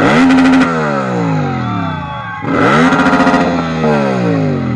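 Motorcycle engine revved twice. Each rev climbs quickly, holds for about half a second at the top, then winds back down.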